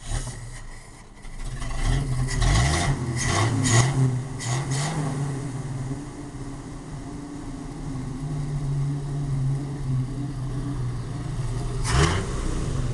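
1968 Ford F100's 240 inline-six on its first start with newly fitted ignition points. The engine is revved in several quick blips over the first few seconds, then settles into a steady idle, with another short rev near the end.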